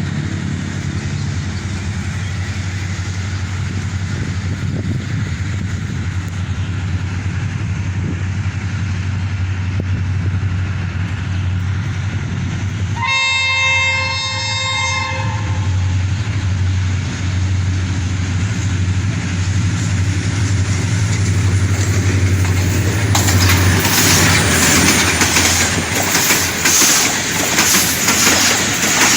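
HGMU-30 diesel locomotive running with a steady low drone, sounding its horn once for about two seconds midway, a chord of several tones. Near the end the train passes close, with loud rushing wheel noise and clickety-clack over the rail joints.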